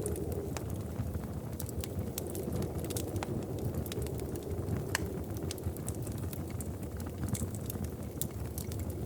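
Wood fire crackling: scattered sharp pops and snaps, several a second, over a low steady rumble.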